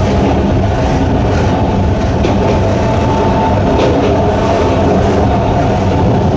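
Sangi Railway Hokusei Line narrow-gauge electric train running, its nose-suspended traction motors and gearing giving a steady low drone over the noise of wheels on rail.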